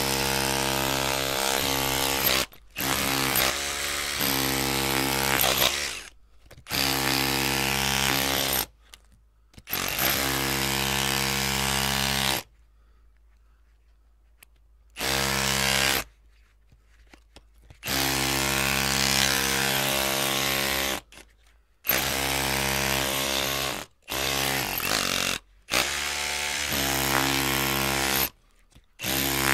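Electric drill running in repeated bursts of one to four seconds, each at a steady pitch, stopping and starting again about ten times. The longest pause comes near the middle.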